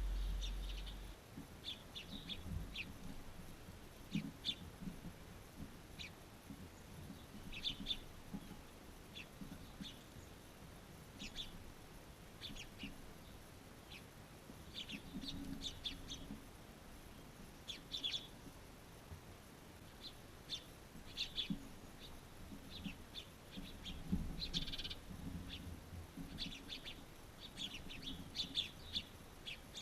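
Pet birds chirping: short high chirps at irregular intervals, in loose clusters, with some softer low calls beneath them. A low rumble fades out about a second in.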